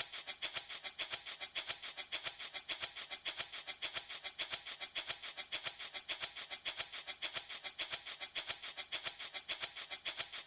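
Handmade rattle shaken steadily, a bright hissing rattle at an even quick rhythm of about six shakes a second.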